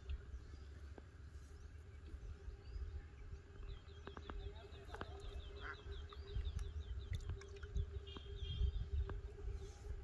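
A small bird calling: a rapid run of high chirps starting about four seconds in, and another short call near the end, over a low rumble with a few light clicks.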